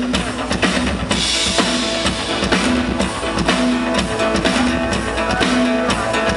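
Live band playing an instrumental passage: a drum kit keeps a steady beat with bass drum and cymbals under held notes from the other instruments, with a burst of cymbal wash about a second in.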